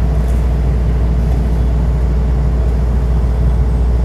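Heavy paving machinery's engine running steadily, a constant deep rumble without changes in speed.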